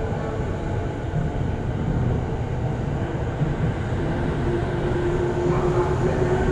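E217-series electric commuter train pulling out along the platform, its wheels and running gear rumbling steadily. About four seconds in, a steady hum from the drive joins, rising slightly in pitch as the train gathers speed.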